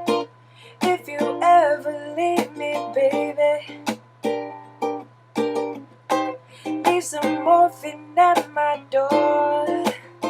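Ukulele strummed in a steady pattern of chords, with a singing voice carrying the melody over it.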